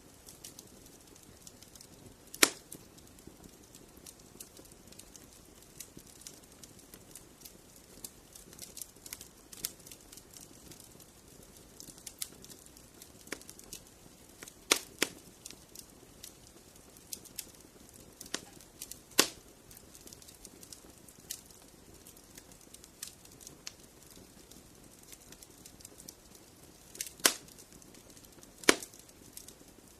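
Wood fire in a fireplace crackling: a steady scatter of small crackles over a faint hiss, broken by several sharp, louder pops.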